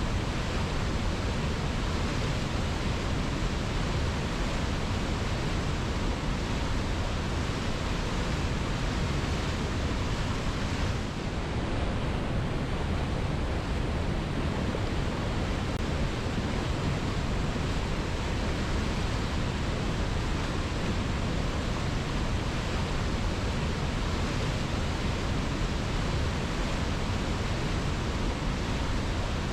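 Waterfall: a steady rush of falling water, an even unbroken roar that dips briefly once, about eleven seconds in.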